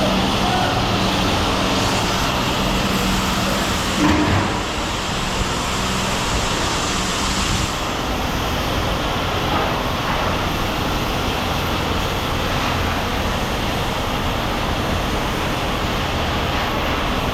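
A large engine running steadily, with one short clank about four seconds in.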